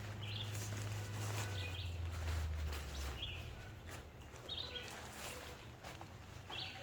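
A bird chirping, about five short high calls spaced a second or more apart, over a low steady hum.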